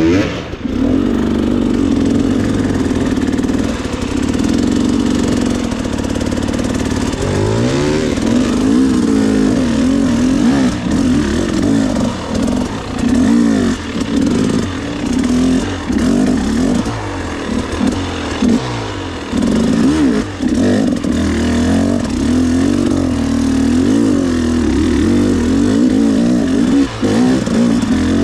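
Dirt bike engine revving up and down with constant throttle changes while riding a trail, its pitch rising and falling every second or two.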